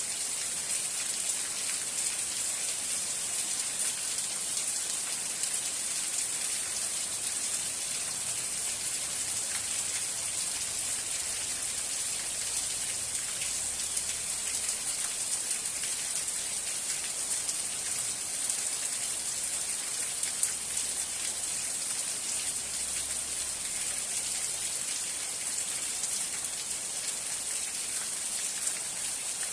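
Steady rain falling: an even, high hiss of many drops with fine ticks of individual drops throughout.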